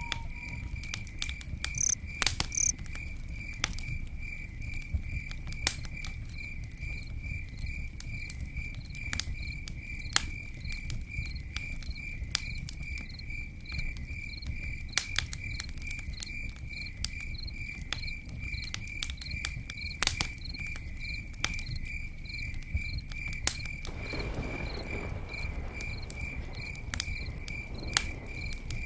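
Campfire crackling, with scattered sharp pops, over a low steady rumble of the burning fire. A cricket chirps throughout in an even, unbroken rhythm.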